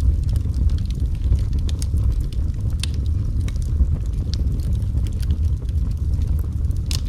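Wood fire crackling: a steady low rumble of the flames with scattered sharp pops and snaps, a louder pop about three seconds in and another near the end.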